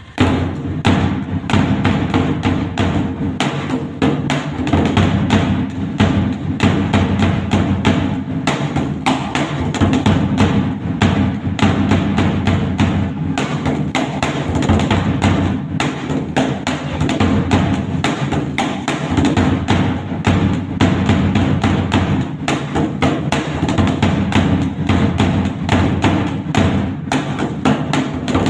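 Dhak, a large two-headed barrel drum beaten with sticks, played in a fast, continuous rhythm of dense strokes, starting abruptly.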